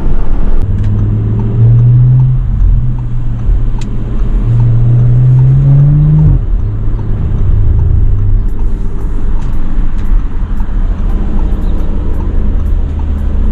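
Audi RS5's twin-turbo V6 with a resonator-delete exhaust, heard from inside the cabin while driving. The engine note rises twice as the car accelerates, and the second pull cuts off abruptly about six seconds in. It then settles into a steady low drone while cruising.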